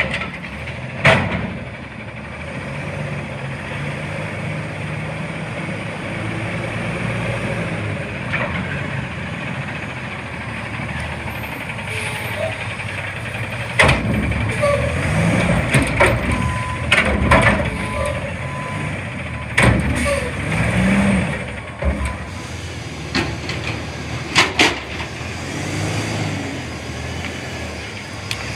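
CNG front-loader garbage truck running, with a steady low engine drone. One sharp clank comes about a second in, and a run of loud metal clanks and bangs comes in the second half.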